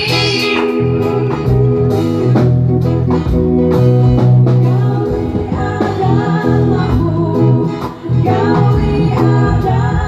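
A band playing a song: a voice singing over plucked guitar and a bass line. The singing comes in near the start and again through the second half.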